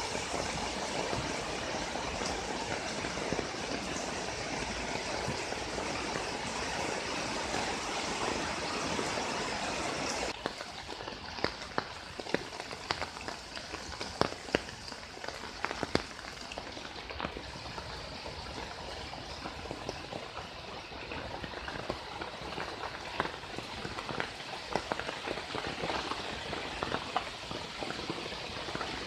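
Heavy rain falling steadily, a dense even hiss. About ten seconds in it gives way to a lighter rain in which single drops tick and splash close by.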